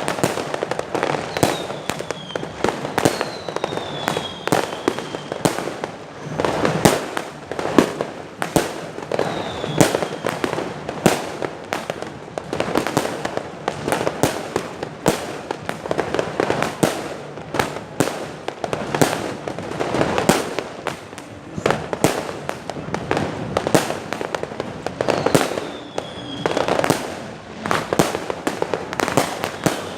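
Many fireworks going off without a break: a dense run of bangs and crackles, with a few short falling whistles among them.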